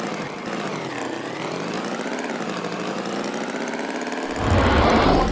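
A motor running steadily, its pitch wavering slightly; a little over four seconds in, a louder, deeper noisy sound starts suddenly.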